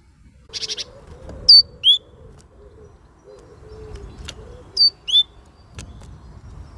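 A small songbird calling: a quick chattering run of short notes, then a loud two-note call of high downward-slurred notes. The two-note call comes again about three seconds later.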